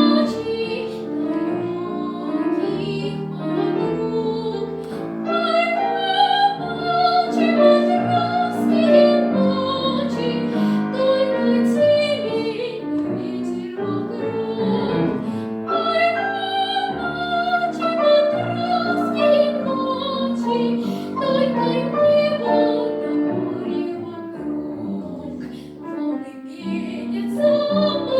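A young girl singing in a trained, classical style with vibrato, accompanied by piano.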